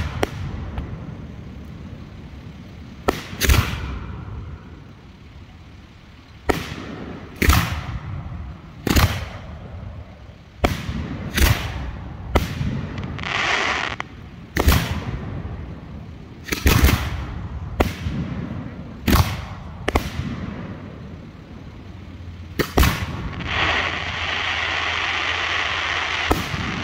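Hand-fired 3- and 4-inch aerial firework shells bursting, about fifteen sharp bangs at uneven spacing of roughly one to three seconds. A steady hiss of a few seconds comes near the end.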